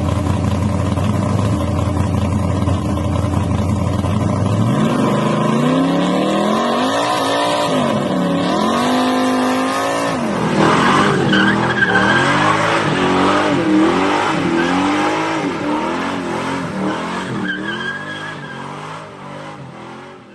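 A motor vehicle engine running steadily, then revved up and down again and again, its pitch rising and falling. It fades away near the end.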